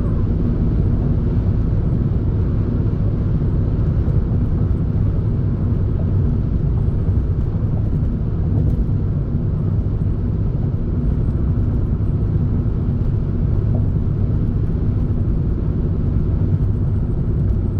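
Steady low rumble of a car driving along, engine and road noise.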